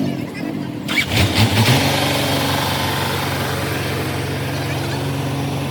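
Dump truck engine starting with a short burst about a second in, then settling into a steady idle.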